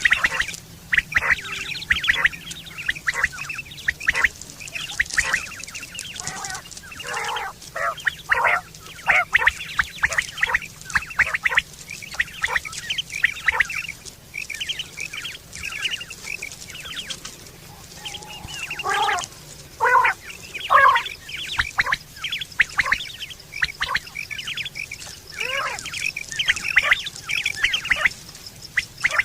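Quail calling: short, sharp notes repeated in quick runs throughout, with a few lower, fuller calls about two-thirds of the way in. It is a quail call of the kind played to lure quail for hunting and mating.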